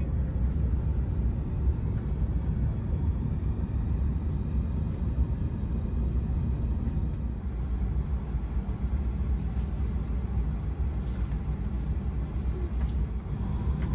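Steady low rumble of a Shinkansen bullet train running, heard inside the passenger cabin, with a few faint clicks near the end.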